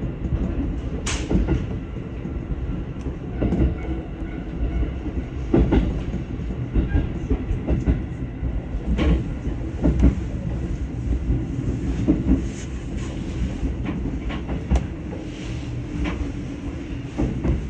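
Train rolling over rail joints: sharp wheel clacks at irregular intervals of one to three seconds over a steady low rumble.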